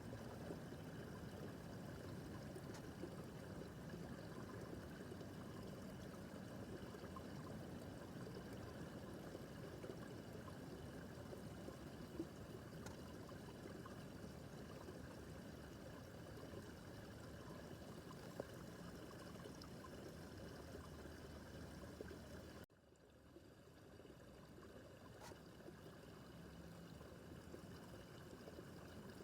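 Babbling brook running, a faint, steady flow of water. About three quarters of the way through it cuts out abruptly for a moment and comes back slightly quieter.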